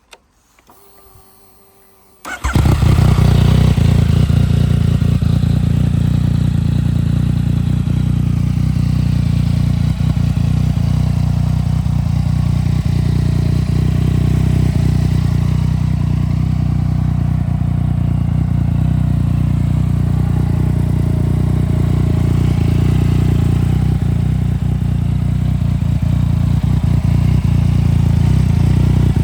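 2015 Yamaha MT-09's 847 cc inline-three engine, breathing through a full stainless Black Widow exhaust, starting up: it catches suddenly about two seconds in and settles into a steady, loud idle.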